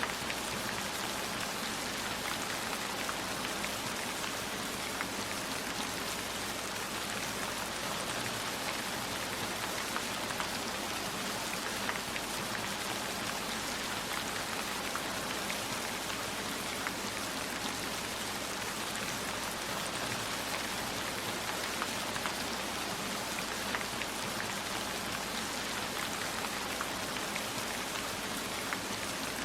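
Steady heavy rainfall, an even hiss with scattered small ticks of drops striking surfaces.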